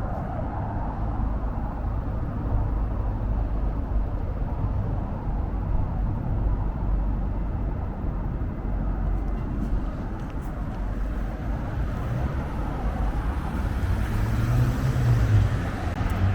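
Low, steady road traffic rumble, with a vehicle engine growing louder and rising and falling in pitch near the end.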